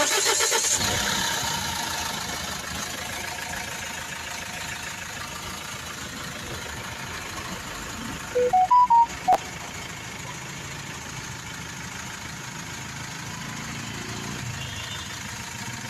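Mahindra XUV500 engine idling, louder in the first couple of seconds and then settling to a steady idle. About eight seconds in, a quick run of short electronic beeps steps up in pitch.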